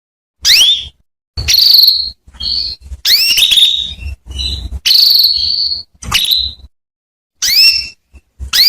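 Female canary calling: a string of short, upward-sweeping chirps, roughly one a second, a few drawn out into a longer whistled note. These are the calls used to draw a male canary into song.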